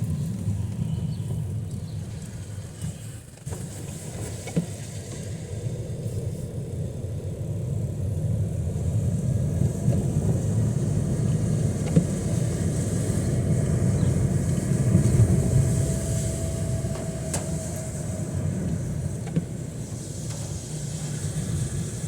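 Motor traffic on a rain-soaked street: a steady low engine rumble with a hiss of tyres and water above it. A faint held tone comes in about three quarters of the way through.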